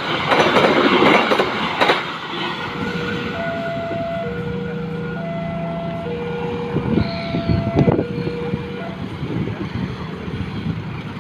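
Argo Lawu express train running through at speed, its wheels clattering for about two seconds before the noise drops away. A two-note high-low tone then alternates, about a second per note, for around six seconds.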